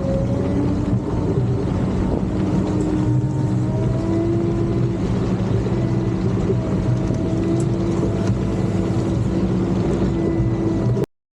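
CAT D7 bulldozer's diesel engine running steadily, its pitch shifting slightly up and down. It cuts off suddenly near the end.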